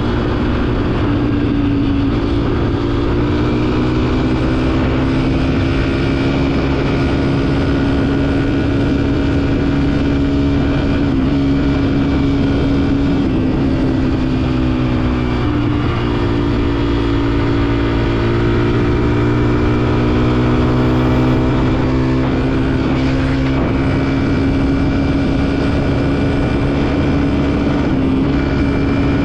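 Dirt bike engine running at a steady cruising speed, its pitch dropping briefly just past halfway and climbing back.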